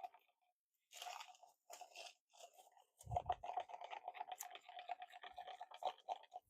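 A stir stick scraping around the inside of a plastic cup, mixing pigment paste into epoxy resin in quick repeated strokes, with short pauses early on and a low knock a little after three seconds.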